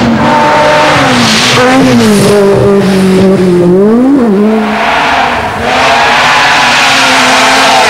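Rally car engine running hard at full throttle, its pitch climbing and dropping with gear changes, with a quick lift and rise about four seconds in.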